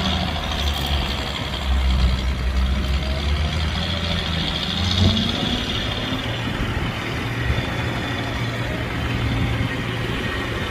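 Diesel engine of heavy machinery running steadily, its low note shifting slightly higher about halfway through.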